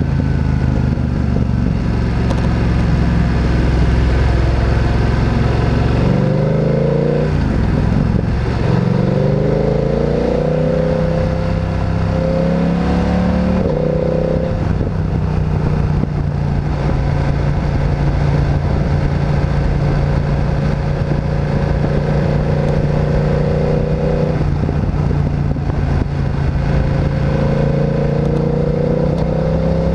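Motorcycle engine heard from the rider's seat, accelerating hard through several gears, its pitch climbing and dropping at each shift, then holding a steady cruise before it picks up speed again near the end.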